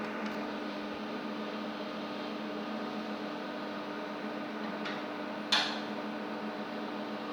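Steady machine hum with fan noise, holding several steady tones. A faint click comes about five seconds in, and a sharp, louder click follows just after, from a part being handled.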